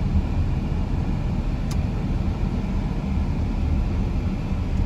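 Steady low rumble of a car driving along, engine and tyre noise.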